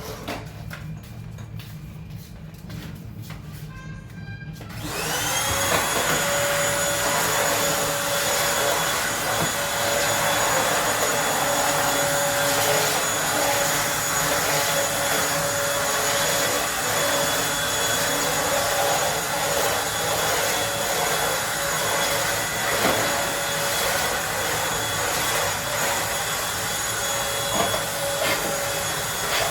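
Eureka Blaze stick vacuum switched on about five seconds in, its motor spinning up and settling into a steady high whine with a rushing hiss of suction as it runs.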